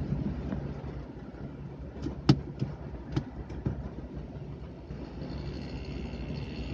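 Car engine idling, heard from inside the cabin while the car waits at a red light, as a steady low hum. A few sharp clicks come between about two and four seconds in, one much louder than the rest.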